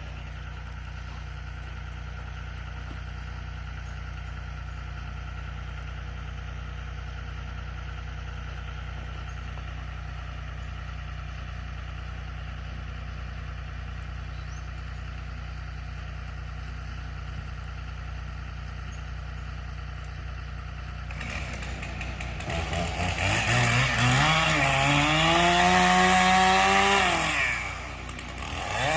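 An engine idles steadily. About 21 seconds in, a chainsaw revs up and runs at high speed for several seconds, its pitch wavering as it cuts, then drops off near the end.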